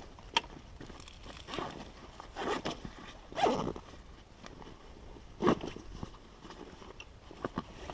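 Camping gear being handled and unpacked: a run of short rustles, swishes and light knocks of bags and stuff sacks, the loudest about two and a half, three and a half and five and a half seconds in.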